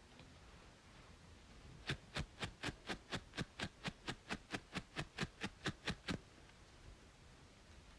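Brisk scratching on a braided scalp: a quick, even run of about nineteen strokes, four or five a second, starting about two seconds in and stopping abruptly a second or two before the end, over a faint steady hiss.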